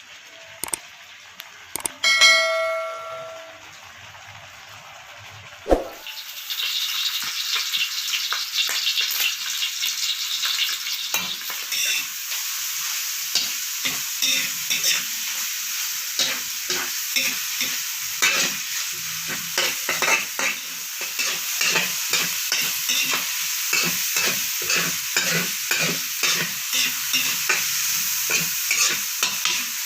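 Food frying in hot oil, a steady sizzle full of sharp crackles and pops, starting about six seconds in. A short chime rings out about two seconds in, before the sizzle.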